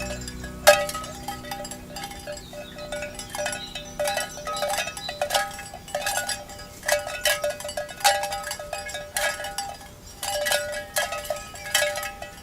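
Cowbells on walking cattle, clanking irregularly with a ringing metallic tone, sometimes several strikes a second.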